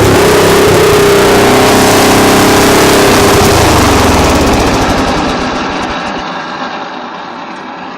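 Engine running steadily after a cold start, then fading gradually over the last few seconds.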